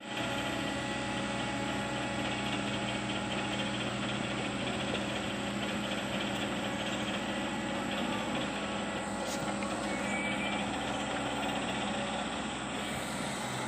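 Excavator engine running steadily at an even speed.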